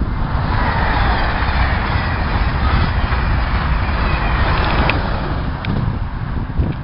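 A train passing close by, the rolling noise of wheels on rail swelling in during the first second and holding steady, with wind rumble on the microphone underneath.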